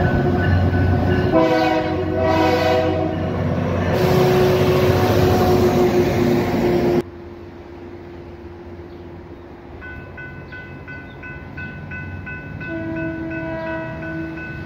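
Metro-North Brookville BL20GH diesel locomotive running loud past a level crossing, sounding its horn in two blasts about a second and a half in; the sound cuts off suddenly about seven seconds in. From about ten seconds in, an electronic railroad crossing bell dings rapidly and steadily.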